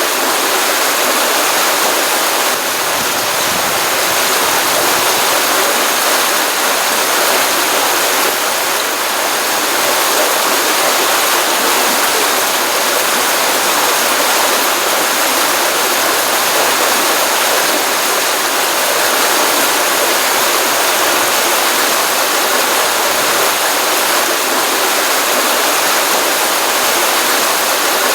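Pond stream water running, a steady, unbroken rushing flow with no changes.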